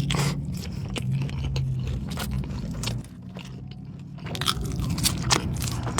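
Close-miked chewing of a mouthful of corned beef fries, with many short, crisp crunches over a low steady hum. The crunching eases for about a second midway, then picks up again.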